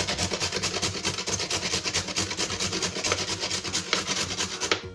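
Carrot being grated on a flat handheld metal grater: a fast, even run of rasping strokes that cuts off abruptly near the end.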